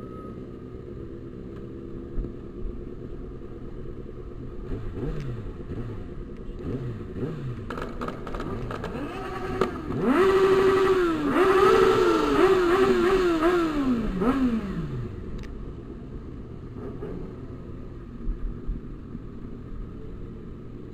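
Motorcycle engines running, with a few short revs and then, about ten seconds in, a loud burst of throttle blips, the engine pitch rising and dropping several times over some five seconds.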